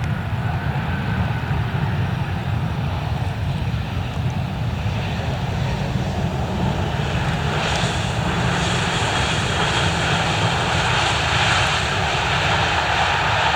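Airliner engines running, a steady low rumble with a high hissing whine growing louder from about halfway in as the aircraft draws nearer.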